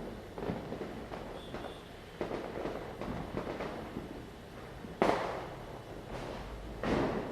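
Diwali firecrackers going off: many bangs and crackles overlapping, with the loudest bang about five seconds in and another strong one near the end.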